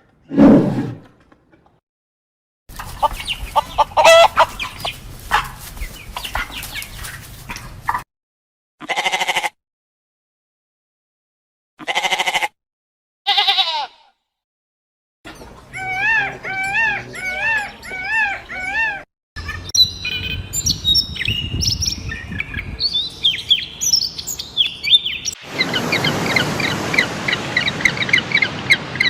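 A run of short, separate clips of birds and chickens calling, cut together with sudden silences between them. Near the end come repeated chirps, then dense overlapping chirping.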